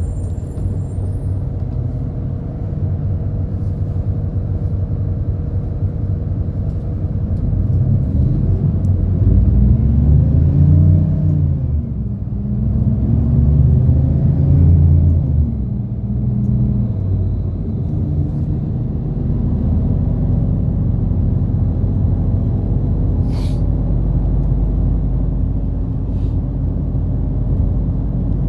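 A city bus's diesel engine heard from inside the passenger cabin, revving up and easing off twice in quick succession as the bus pulls away and changes gear, then running steadily at cruising speed. A brief sharp noise cuts in once, a little past the middle.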